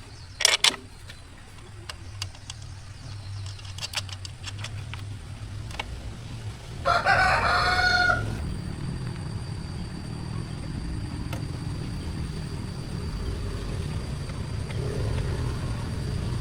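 A rooster crows once, about seven seconds in, lasting about a second and a half, over a steady low rumble. A couple of sharp clicks sound about half a second in.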